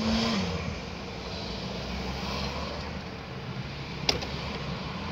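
Chevrolet Caprice V8 heard from inside the cabin on a road test, with its engine and road noise running steadily; the engine note drops about half a second in. The engine has a cylinder 1 misfire on record. A single sharp click sounds about four seconds in.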